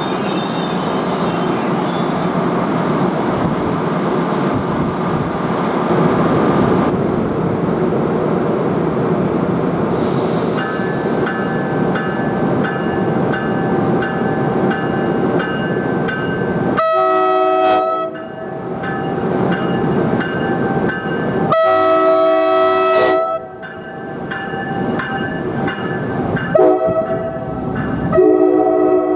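NJ Transit train rolling by with a steady rumble of wheels on rail, then its multi-tone air horn sounding three times, the last blast the longest.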